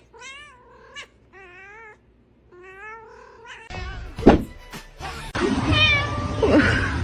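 A cat meowing, a string of about six short calls one after another. About four seconds in, the sound turns louder and noisier, with a sharp knock and further cries in the noise.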